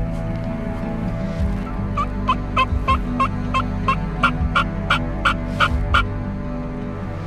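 Turkey yelping: a run of about fourteen short, evenly spaced yelps, three or four a second, beginning about two seconds in and growing louder before stopping about six seconds in.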